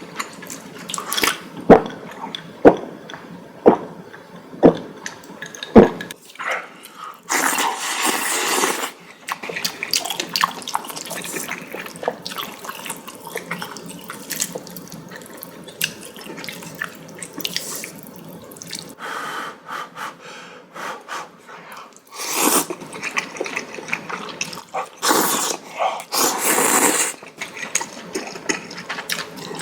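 A person eating noodles, slurping noodles and broth in several noisy bursts of a second or two. About six sharp clicks come roughly a second apart in the first few seconds.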